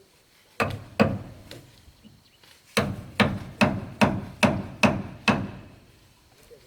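A hammer striking wood: two blows, then a steady run of seven at about two and a half a second.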